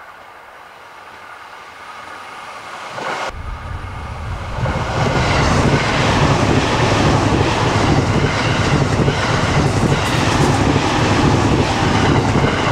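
JR East 255 series limited express electric train running on the line: at first approaching and slowly growing louder, then, with an abrupt jump about three seconds in, the loud steady rush and low rumble of the cars passing close by at speed.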